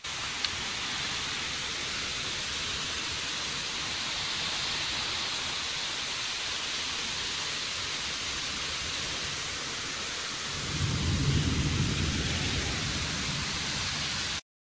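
Heavy rain falling steadily, with a louder low rumble about ten seconds in that lasts a couple of seconds. The sound cuts off abruptly just before the end.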